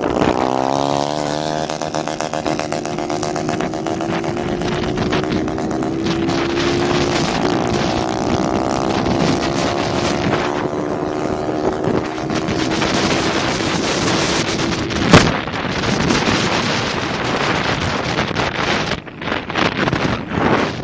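Motorcycle engine with an open, straight exhaust running under way. Its pitch drops sharply at the start, then holds steady, and another engine's pitch rises in the middle. There is a single sharp pop about fifteen seconds in, and heavy wind noise on the microphone throughout.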